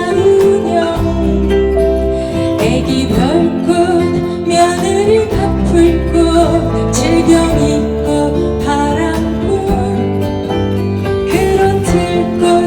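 A song played live, with acoustic guitar accompaniment under a singing voice.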